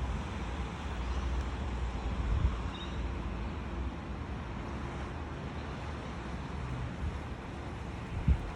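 Heavy summer-storm rain falling steadily, with wind rumbling on the microphone and a short low thump near the end.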